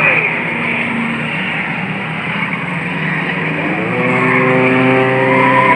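Engines of junk cars and trucks running hard in a track race. One passes with a falling pitch at the start, and about four seconds in an engine revs up and holds a higher pitch.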